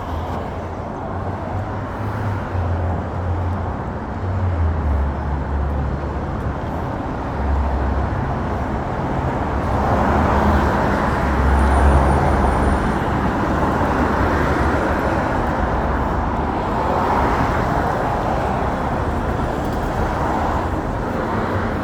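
Road noise of a car being driven: a steady low rumble of tyres and engine with a hiss of traffic, growing louder about halfway through.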